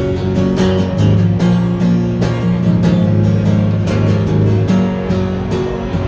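Instrumental passage of a live pop song: acoustic guitar strumming steadily over long held low notes.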